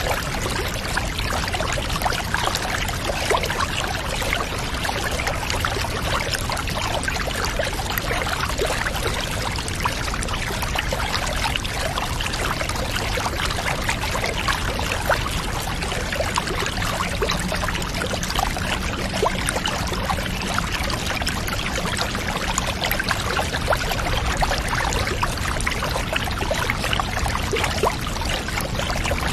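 Steady running water pouring into a bathtub, a continuous unbroken rush and trickle.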